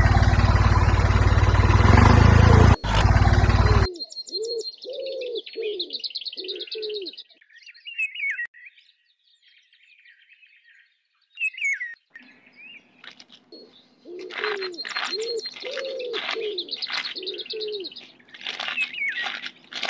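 For the first four seconds a loud, dense rough noise that cuts off abruptly. Then bird sounds: a dove cooing in short falling notes, with small birds chirping and trilling above it. These fade out around the middle and return over a low steady hum.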